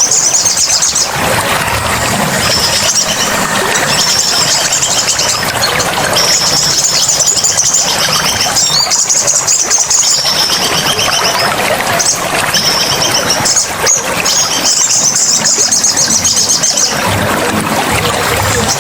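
Small songbird singing rapid, high-pitched trilled phrases, each one to three seconds long, repeated several times over the steady rush of running water.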